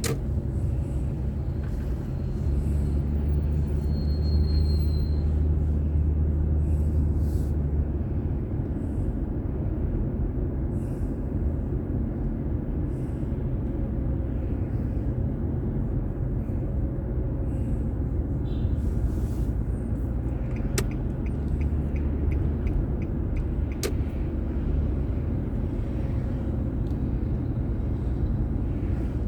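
Car road noise picked up by a dashboard camera while driving: a steady low rumble of engine and tyres that swells twice as the car gathers speed.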